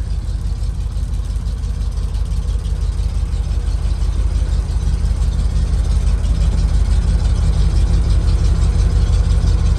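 1972 Chevrolet C60 truck's engine running steadily with the PTO engaged while the hydraulic dump box is lowered: a steady low rumble that grows a little louder in the second half.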